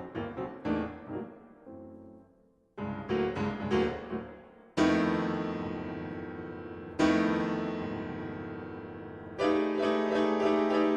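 Solo piano music: quick runs of notes with a brief lull, then two long chords left to ring and fade, and fast repeated notes near the end.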